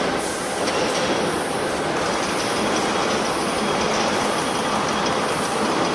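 Tire-derived-fuel (TDF) shredding line running: a loud, steady mechanical din that goes on without a break.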